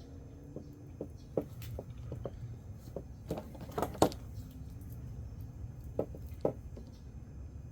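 Scattered light clicks and taps of wire and small tools being handled during soldering, with one sharper knock about four seconds in, over a low steady hum.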